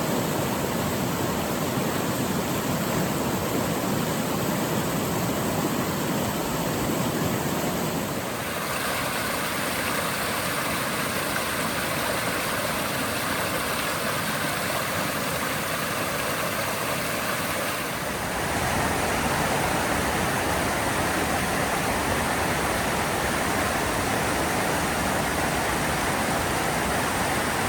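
Rushing creek water, a steady noise whose character shifts about 8 seconds in and again about 18 seconds in.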